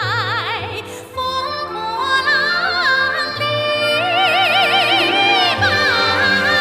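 A woman singing a slow melody in a high, operatic style, holding long notes with wide vibrato over instrumental accompaniment.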